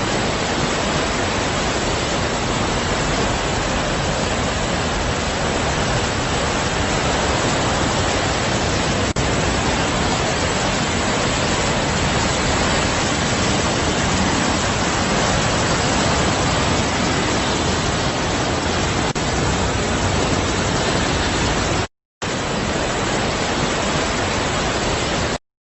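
Steady, even rushing of heavy water. It breaks off for a moment about 22 seconds in and stops abruptly just before the end.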